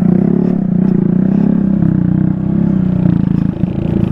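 Off-road vehicle engine idling steadily, with a brief dip about three and a half seconds in.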